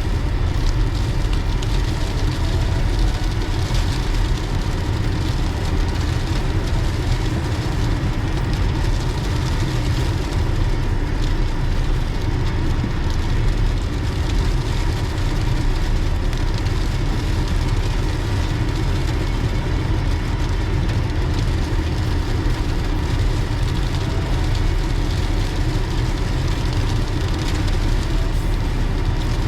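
Car driving: steady engine and road noise, heaviest in the low end, holding even with no sudden events.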